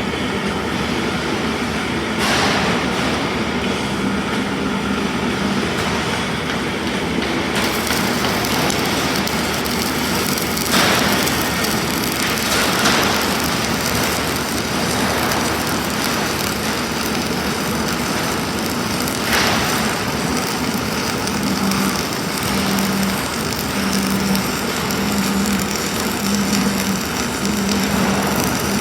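Self-shielded flux-cored arc welding with Lincoln Innershield NR305 wire: a steady, loud arc crackle with a low hum under it and a few brief louder surges.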